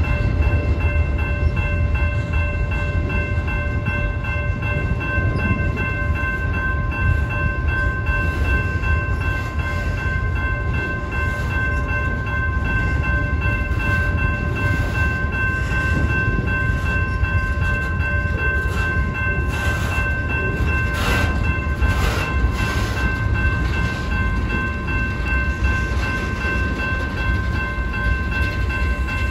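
Freight cars rolling past at a grade crossing with a steady low rumble, while the crossing's warning bell rings continuously over it. A few brief clanks from the cars come about two-thirds of the way in.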